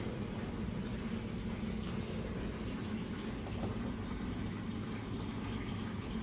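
A steady running-water noise that does not change.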